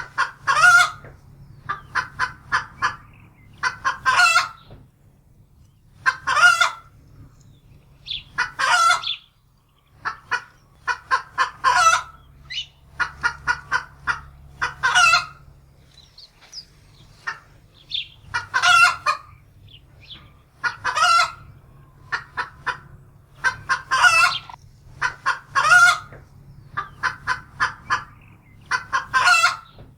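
Domestic hen cackling in alarm: runs of short, quick clucks, each ending in a long, loud squawk, repeating every two to three seconds. It is the fright cackle of a hen that has seen a wildcat.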